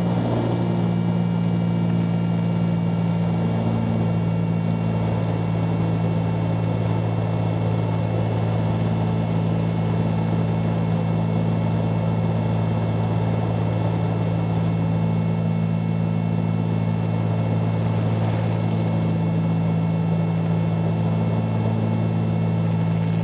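Steady drone of a 1974 Cessna 310Q twin's engines and propellers in cruise flight, an even low hum with no change in pitch.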